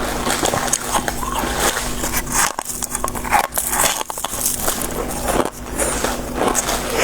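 Soft shaved freezer-frost ice being bitten and chewed close to the microphone: dense crunching and crackling made of many quick crisp snaps, over a steady low hum.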